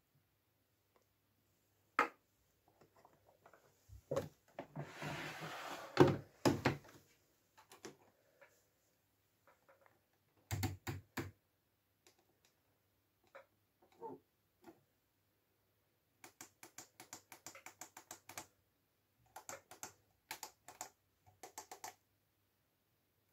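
Hand handling of a Miele W433 washing machine: scattered clicks and knocks, a short burst of rustling and thuds about five seconds in, then runs of rapid clicking in the second half.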